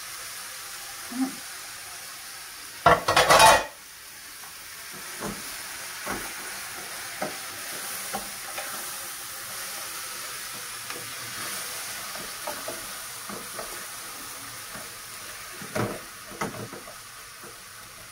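Onions and minced meat frying with a steady sizzle in an aluminium pot. About three seconds in comes a loud burst of scraping as the mince is scraped off a plate with a knife into the pot. After that a wooden spoon stirs, with scattered light knocks against the pot.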